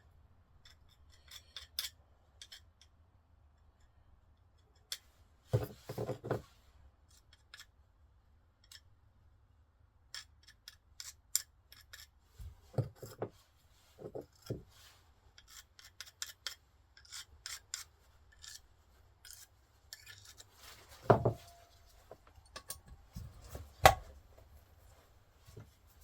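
Metal engine parts and tools being handled during valve work on a cylinder head: scattered clicks and scrapes with a few louder knocks, the loudest two in the last third.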